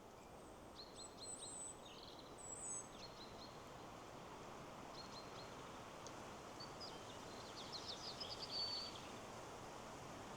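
Songbirds chirping in short, high calls over a steady rush of wind through trees, with a quicker run of chirps about eight seconds in.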